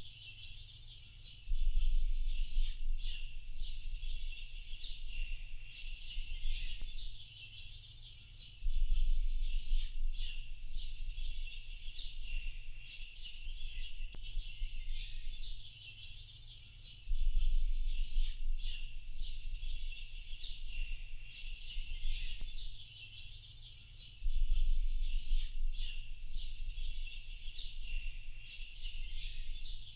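Dense, continuous chorus of many birds chirping and twittering. A low rumble swells up about every seven to eight seconds, each time for several seconds.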